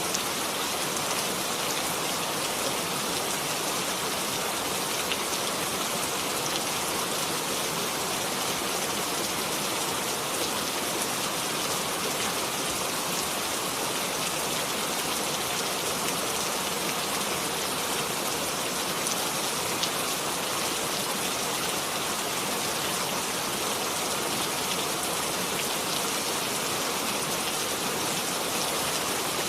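Steady rain falling, an even hiss with faint scattered drop ticks on a surface.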